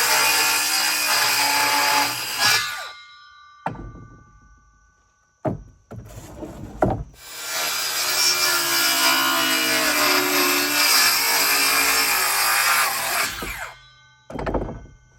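Power saw cutting wood in two long cuts, each stopping abruptly. Between the cuts and near the end come a few sharp wooden knocks.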